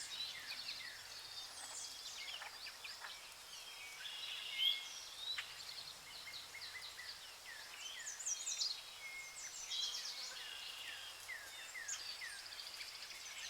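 Faint outdoor nature ambience: many small birds chirping in quick, overlapping, downward-sliding notes over a light background hiss.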